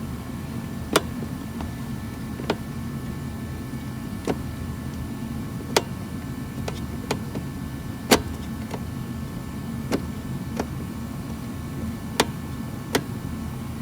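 Irregular sharp clicks and taps of a hand screwdriver working the small screws on a car's heater core box, about one a second, over a steady low hum.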